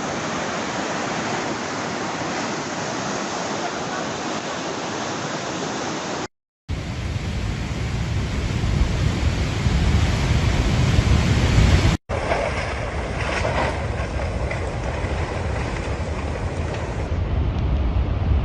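Floodwater rushing, a steady noisy wash across three clips separated by two brief cuts. The later two clips carry a heavy low rumble of wind on the microphone.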